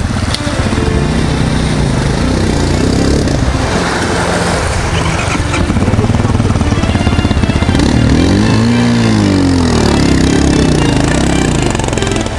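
Enduro motorcycle engine revving hard, its pitch rising and falling again and again, with one long rev up and back down about eight seconds in.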